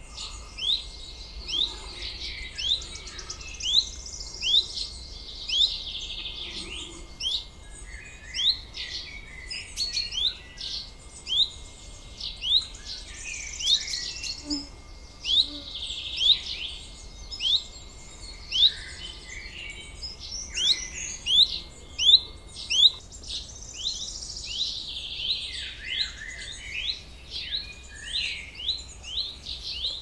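Small songbirds calling: a long run of short, rising chirps, about two a second, over other birds singing in the background.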